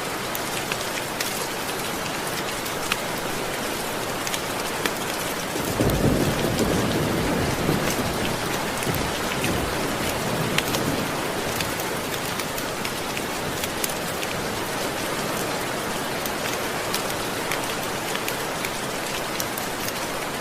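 Steady rain with a hiss of drops and scattered sharp ticks, and a roll of thunder that rumbles in about six seconds in, swells, then fades away over about five seconds.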